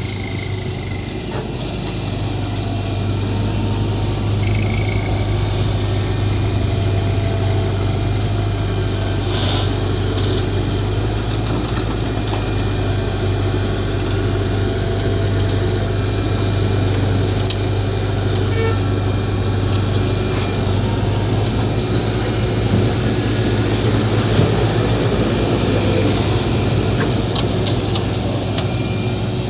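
Heavy diesel engine of construction machinery running steadily with a low, even hum.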